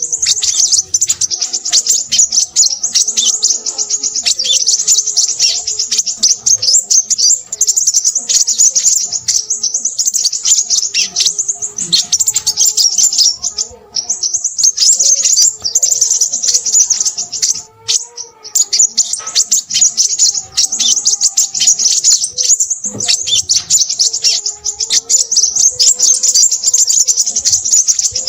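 Crimson sunbird singing loudly: a fast, high-pitched, almost unbroken chattering twitter with a few short pauses. Fainter, lower wavering calls sound beneath it.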